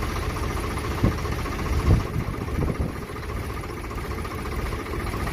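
Tractor diesel engine idling with a steady low rumble, with two short knocks about one and two seconds in.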